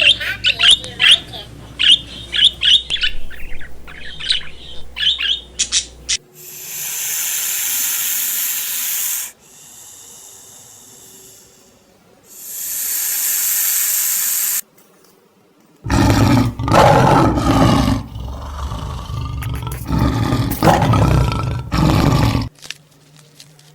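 A small bird chirping in quick, repeated high calls for about six seconds. Then come two long bursts of hiss, and after a pause a loud, rough roar-like animal call lasting several seconds.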